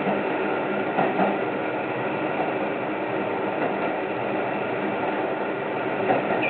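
Train running, heard from inside the driver's cab: a steady running noise with faint mechanical ticking and a few short knocks about a second in.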